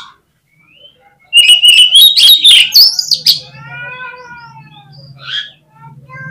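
Oriental magpie-robin (kacer) singing. After a short pause comes a loud burst of rapid, varied chirps and trills lasting about two seconds, followed by softer drawn-out falling notes.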